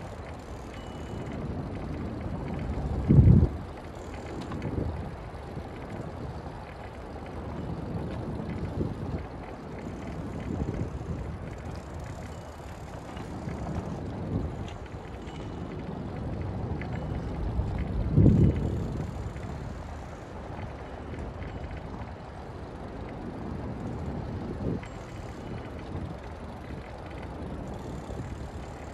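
Bicycle riding noise: a steady low rumble of tyres and wind on the phone's microphone, broken by two heavy low thumps, one a few seconds in and one a little past the middle.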